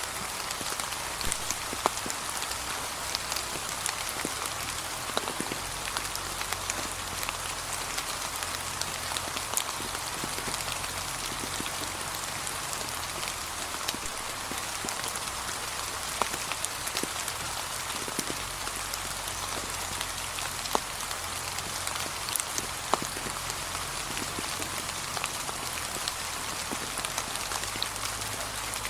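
Gentle, steady rain falling on a path of fallen autumn leaves, with scattered sharper taps of single drops.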